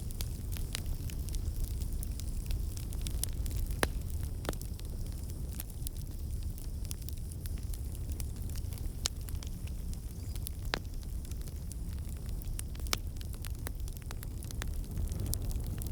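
Wood fire burning in a fireplace: a steady low rumble of flames under irregular crackles, with a few louder pops now and then.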